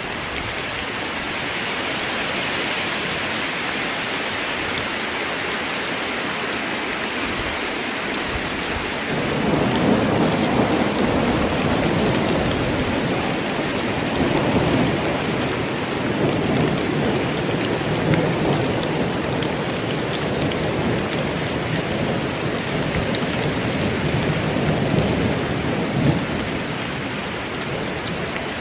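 Steady rain falling in a forest, with rolling thunder coming in about a third of the way through and rumbling on in several swells under the rain.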